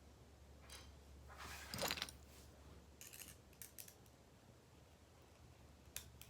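Small metal parts of a butterfly knife trainer handled during assembly: a short scraping rattle about two seconds in, then a few light clicks.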